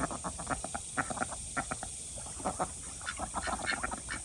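Ducks quacking in a run of short, irregular calls.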